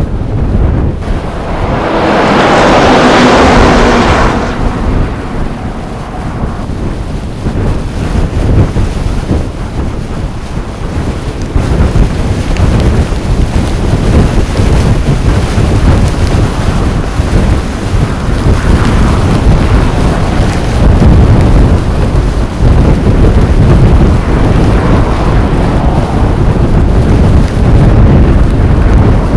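Blizzard wind blowing hard against the microphone: a loud, steady low rumble with a brighter hissing gust about two to four seconds in.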